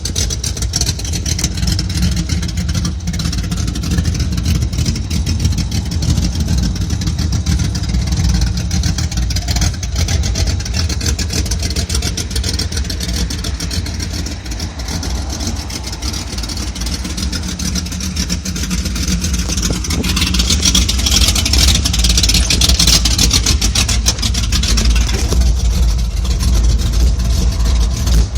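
A 1983 pickup truck's engine running with a steady low rumble, growing louder with added hiss from about twenty seconds in.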